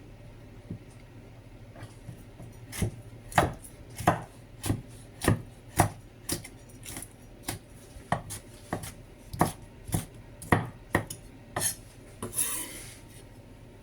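A kitchen utensil knocking repeatedly on a hard surface while food is spooned or cut into a lasagna dish, about sixteen sharp knocks at roughly two a second. A short scraping rustle follows near the end.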